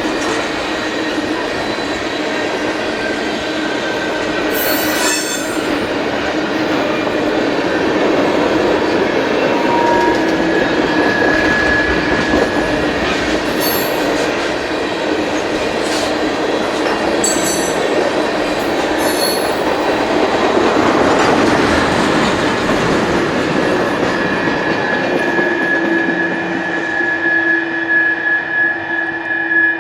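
Freight cars rolling past on steel rails, with a steady rumble of wheels on track. A high-pitched wheel squeal comes and goes and is loudest near the end, with a few sharp clanks scattered through it.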